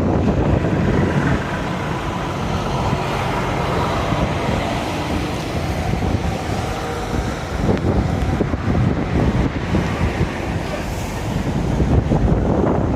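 Steady low rumble of a vehicle and its road noise.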